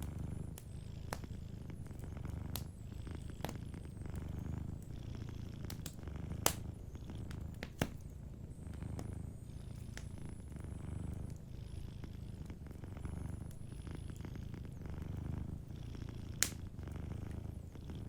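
Domestic cat purring steadily in slow swells, over a wood fire crackling with scattered sharp pops; the loudest pops come about six and a half, eight and sixteen seconds in.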